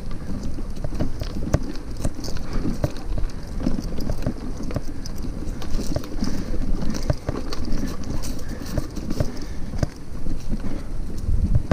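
Hybrid bicycle rolling over a rough dirt trail, heard from a camera riding in the bike's trunk bag. A constant low rumble from the tyres and the jostled bag runs throughout, with frequent irregular knocks and rattles as the bike bumps over roots.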